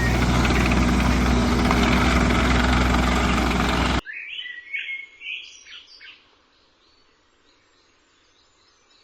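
Digger engine running steadily, then cut off abruptly about four seconds in, followed by a few short bird chirps and then quiet.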